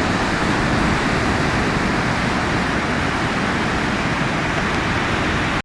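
Steady rushing outdoor noise, even throughout, with no distinct calls or knocks standing out.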